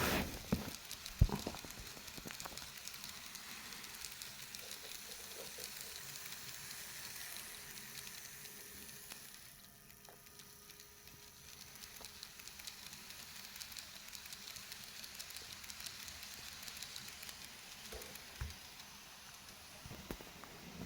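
KATO E233 series model train running on its track: a steady light rattling hiss of wheels on rail, with fine rapid ticks. It dips briefly about halfway through, then comes back. A sharp click sounds about a second in.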